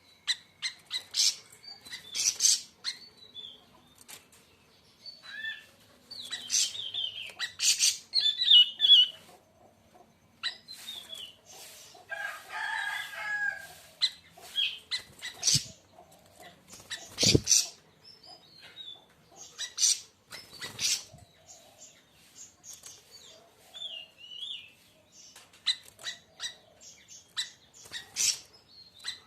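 Siri-siri raja (large siri-siri) bird singing in irregular bursts of sharp, clicking chatter and high wavering whistles, with short pauses between phrases. It breaks into a lower, busier warble about halfway through.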